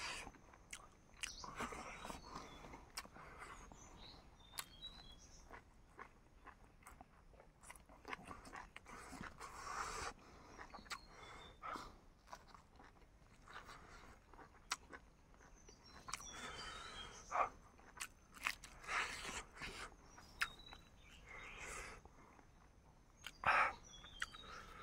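A person eating cooked chicken: irregular biting, chewing and crunching.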